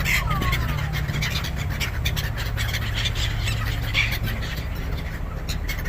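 Seagulls calling, with short falling cries near the start and another cry about four seconds in. Under them runs a steady low rumble, with scattered crackling clicks.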